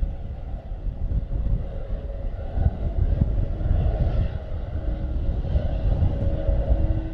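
Distant Airbus A400M's four turboprop engines running with the propellers turning, a steady hum with faint held tones. Heavy wind buffeting on the microphone sits over it.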